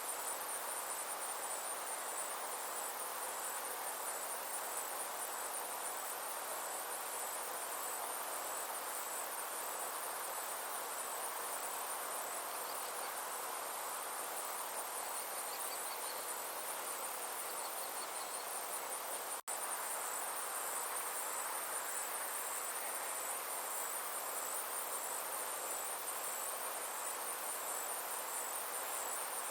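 Summer insects trilling steadily, a high, finely pulsing drone, over a soft even background hiss. The sound cuts out for an instant about two-thirds of the way through.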